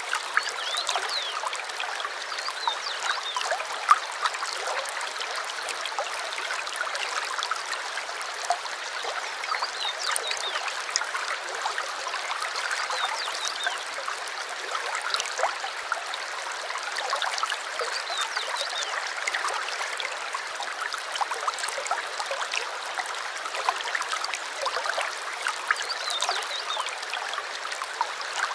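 Small stream trickling and babbling steadily, with many tiny splashes.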